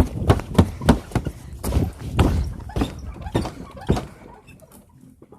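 Footsteps thudding across a swinging footbridge deck, about two or three knocks a second, stopping about four seconds in.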